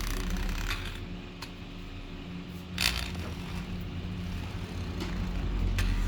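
A few small, sharp clicks and scrapes of handling work, the loudest about three seconds in, over a steady low hum.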